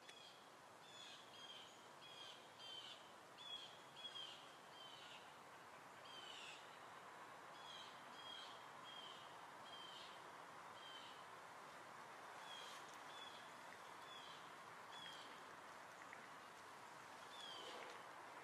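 Faint bird call: short high chirps, each sliding slightly down in pitch, repeated every half second to a second with a couple of brief pauses, over a steady soft hiss.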